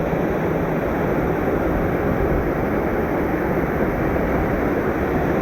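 Loud, steady rushing of a mountain stream's water pouring over rocks, an even roar with no breaks.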